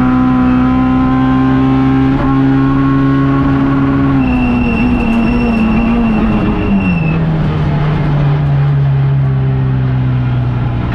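Rally car engine heard from inside the cabin, running at a steady pitch, then dropping in revs in steps about four seconds in and settling at a lower, steady pitch. A high, steady beep sounds for about three seconds midway.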